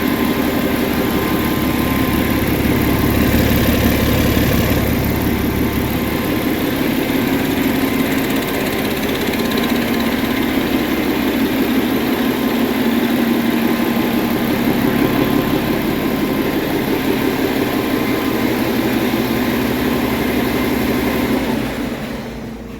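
2018 Paccar MX13 inline-six diesel truck engine running steadily on a test run, in good running order. The sound falls away near the end.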